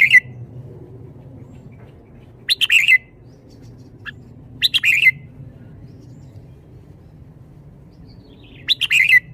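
Red-whiskered bulbul singing short, loud, bubbly phrases of about half a second each, roughly every two to four seconds, four times, with a faint steady low hum underneath.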